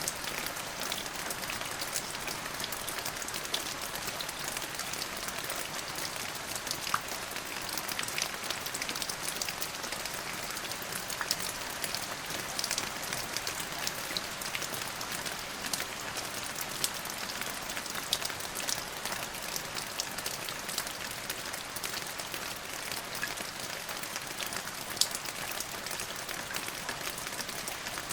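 Steady rain falling, with many close drops ticking sharply on a surface.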